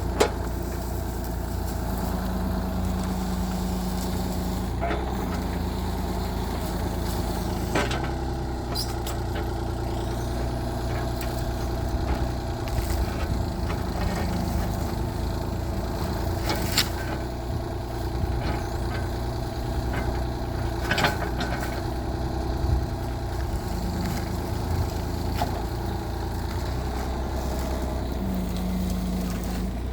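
Mini excavator engine running steadily, its pitch shifting a little now and then, with a few sharp knocks scattered through.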